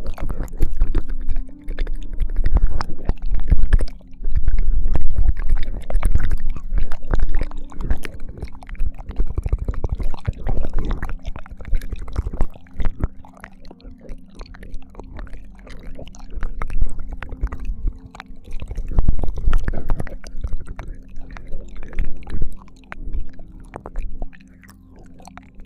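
ASMR ear-licking mouth sounds close to a binaural microphone: wet licks, smacks and clicks coming in clusters with short pauses, over a low rumble.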